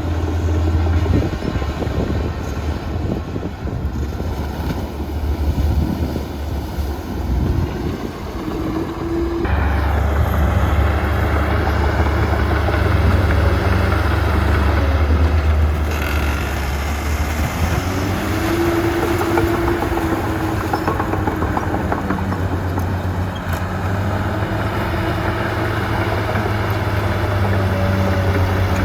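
Diesel engines of heavy earthmoving machinery running: a deep, steady drone that grows louder and fuller about nine seconds in, with the engine pitch rising and falling as the machines are worked.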